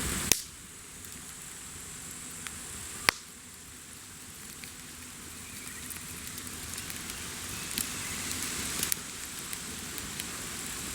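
Wood bonfire crackling over a steady hiss, with two loud sharp pops early on and a few smaller snaps later.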